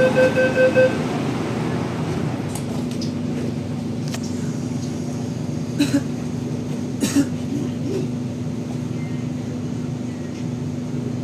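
Hong Kong MTR K-Train running on the Tung Chung Line, heard on board: pulsed electronic beeping in the first second, then a steady low hum from the VVVF traction inverter over running-gear rumble, with two short clunks around the middle.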